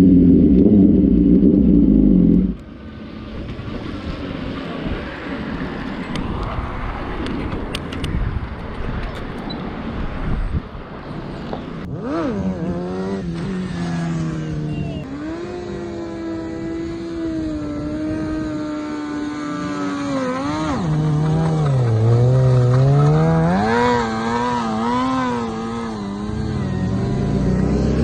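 Motorcycle engine running and revving up and down repeatedly, its pitch rising and falling. It is loud and steady for the first couple of seconds, then drops away suddenly, and revs again from about halfway through.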